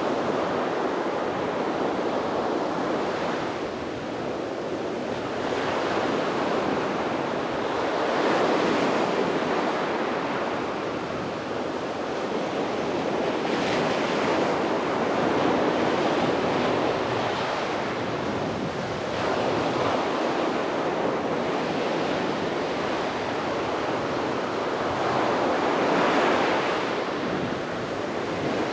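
Sea waves breaking and washing onto a beach, a steady surf noise that swells and ebbs every few seconds, with some wind on the microphone.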